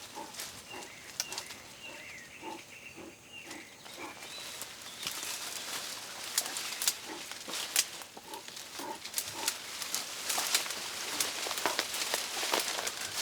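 Spectacled bears grunting in short repeated bursts as they scuffle in a tree, with leaves rustling and twigs crackling, the crackling growing busier about halfway through.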